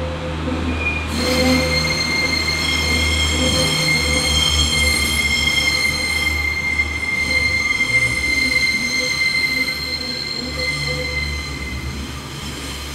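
Class 142 Pacer diesel unit moving through the station with its wheels squealing, a high steady squeal that starts about a second in and fades near the end. Under it is the low, unevenly throbbing rumble of its underfloor diesel engine.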